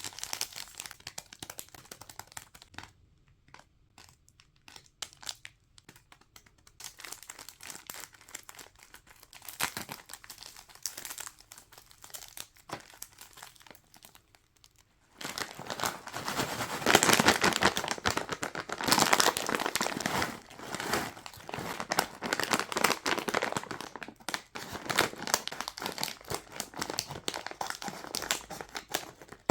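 Plastic snack wrappers crinkling and being torn open by hand, in irregular crackles. The crinkling turns denser and louder about halfway through.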